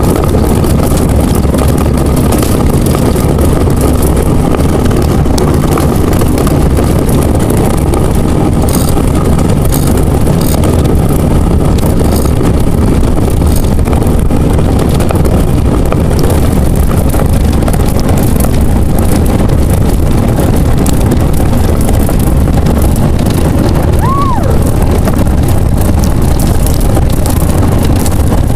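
Ice boat runners rumbling over lake ice at speed, a loud steady rumble with wind buffeting the microphone. A brief high squeak cuts through once, near the end.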